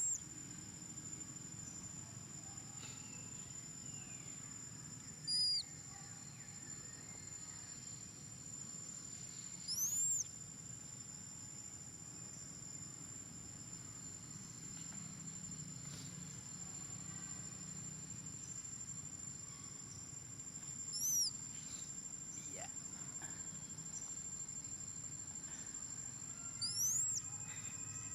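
Insects, crickets or cicadas, trilling steadily on one high pitch. Five short, rising high-pitched chirps stand out over the trill, spaced several seconds apart.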